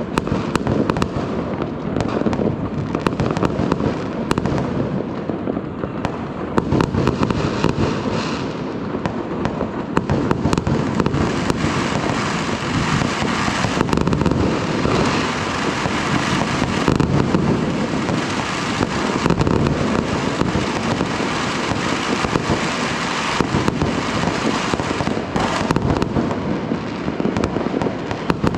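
Fireworks going off in a continuous barrage: dense, overlapping bangs and crackling with no let-up.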